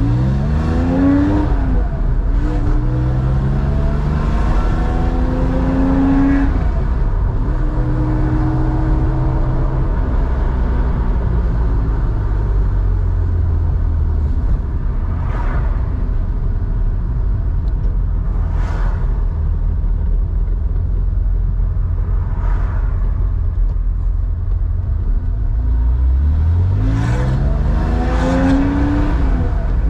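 Air-cooled flat-six of a 1987 Porsche 911, enlarged to 3.4 litres and breathing through a two-in, one-out muffler, pulling up through the gears. The engine note climbs, drops at a shift and climbs again, then holds a steady cruise over a heavy road rumble. It rises through another pull near the end.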